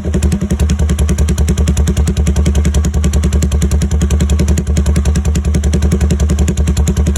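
Motorcycle engine idling steadily through a new exhaust pipe, a fast, even run of exhaust pulses with no revving.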